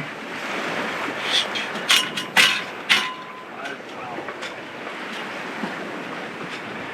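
Steady rush of water and wind around a sailboat under sail offshore, with three sharp knocks about two to three seconds in, two of them ringing briefly.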